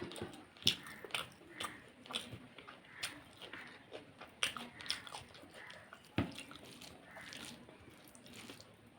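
A person chewing and biting food close to the microphone, with irregular wet mouth smacks and clicks. There is a sharper crunch about six seconds in.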